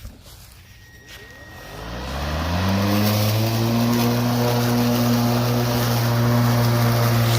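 HART 20V 16-inch cordless lawn mower starting up. Its electric motor and blade spin up with a rising whine after about a second and a half, then run at a steady pitch.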